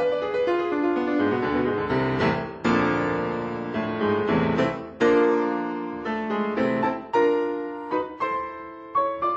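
Solo piano playing: stepwise falling runs of notes, with struck chords that ring and fade, the strongest about halfway through and again near the end.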